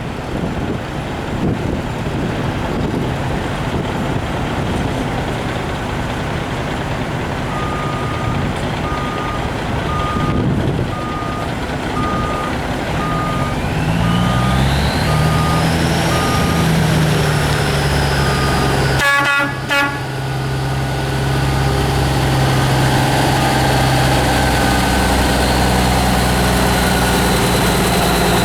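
A Freightliner semi's Caterpillar diesel is started and settles into a steady idle, with a rising whine as it comes up. A steady warning beep sounds at an even pace before and during the start. About two-thirds of the way through there is a brief toot of the horn.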